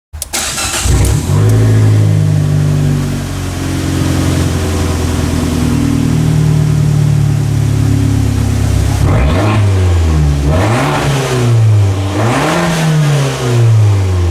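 2012 Fiat 500 Abarth's 1.4-litre turbocharged four-cylinder engine running at a steady fast idle. It comes in abruptly at the start. Near the end it is revved twice, the pitch rising and falling each time.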